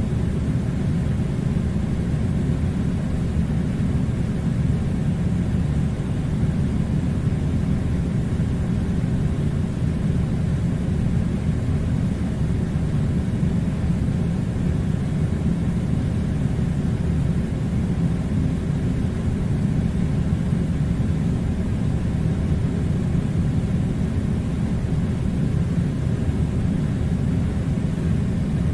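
Air conditioner running: a steady low rumble of blowing air, unchanging throughout.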